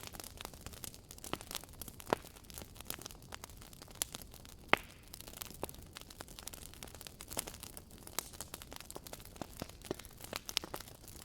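Wood fire crackling: irregular sharp pops and snaps over a low hiss, with two louder pops about two seconds in and near the middle.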